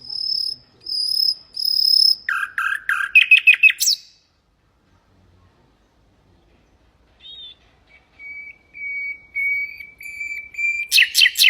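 Nightingale singing: a phrase of clear high whistled notes, then a fast run of notes climbing in pitch; after a pause of about three seconds, a series of lower drawn-out whistles that breaks into a rapid rattling trill near the end.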